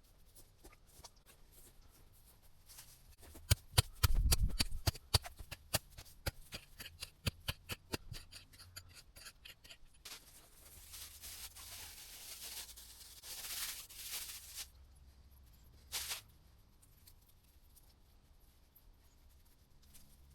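Planting work in soil: a run of sharp clicks and scrapes with a heavy thud about four seconds in, then a few seconds of rustling scraping, and one short scrape near the end.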